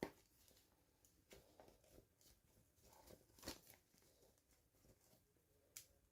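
Near silence with a few faint, sharp clicks and rustles from toy packaging and small plastic pieces being handled during an unboxing, the loudest about halfway through.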